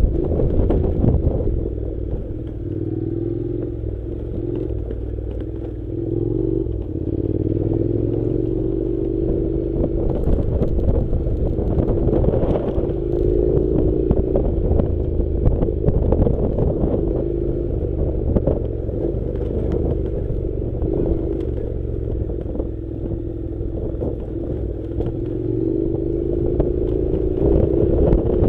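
Honda NC700's parallel-twin engine running on a dirt track, its pitch rising and falling with the throttle. Clatter and knocks from the bike going over rough ground run through it.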